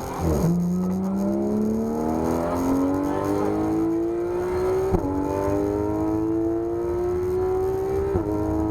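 Porsche 991 GT3 RS's naturally aspirated flat-six engine under hard acceleration on track. The revs drop just after the start and then climb steadily, with a gearshift about five seconds in and another near the end, each a sudden drop in pitch before the climb resumes.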